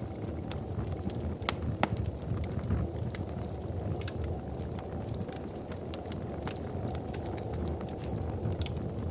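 Wood fire crackling in a fireplace: a steady low rumble with sharp pops scattered irregularly through it, a few of them louder.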